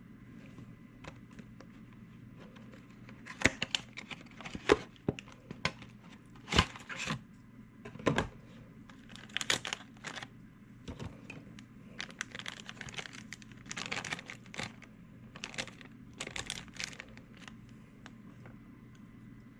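Irregular clicks, taps and crinkling as things are handled on a work surface, over a steady low hum. The sharpest knocks come in the first half.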